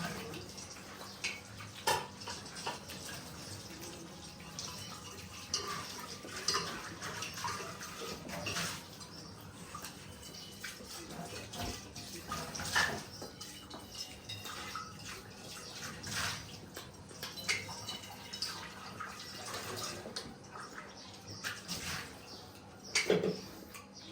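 Eating sounds: wet chewing and smacking, with irregular short clicks scattered throughout.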